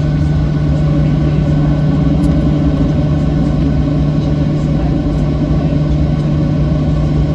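Steady, unchanging engine rumble with a strong low hum.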